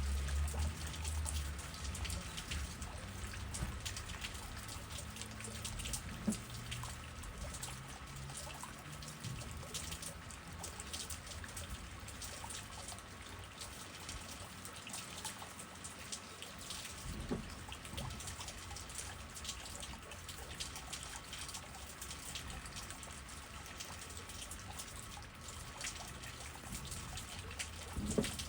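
Steady rain falling, with many separate drops pattering and dripping over a hiss of rainfall. A low rumble of wind comes up briefly near the start and again at the end.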